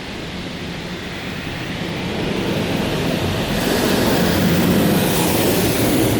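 High-pressure water jets of a LaserWash 4000 touchless car wash spraying a car, a steady rushing noise that grows louder and hissier about three and a half seconds in.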